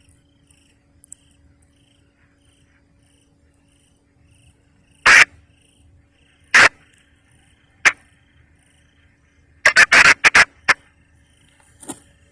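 Short, harsh bird calls: single calls about five, six and a half and eight seconds in, then a quick run of about five near ten seconds. Under them, faint insect chirping repeats about twice a second over a low steady hum.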